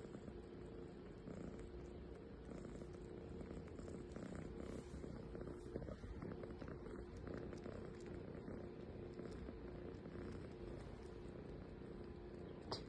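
A domestic cat purring steadily and faintly, with one sharp click near the end.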